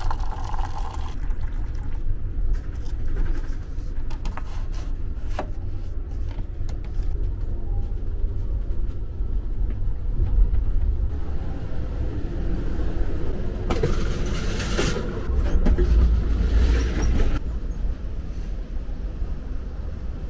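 Steady low rumble of a moving passenger train heard inside the car, with scattered clicks and knocks. A louder rushing noise rises for about three to four seconds past the middle, then drops back.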